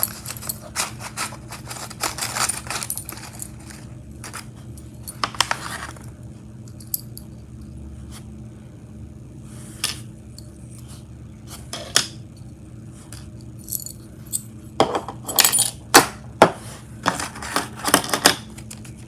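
Loose parts of an HO scale freight car kit, including small metal weights, clinking and rattling as they are handled. The clinks come in irregular clusters, busiest at the start and again near the end.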